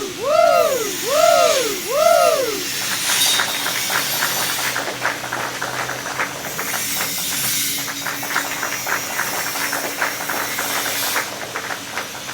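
MIG welding arc burning steadily in a continuous bead, with a dense, even crackle and hiss. In the first couple of seconds, four rising-and-falling tones play over it.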